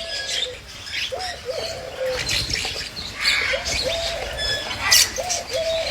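Pigeons cooing repeatedly in low, rolling two-part phrases, about four in a row, with high chirps and short calls from other birds over them.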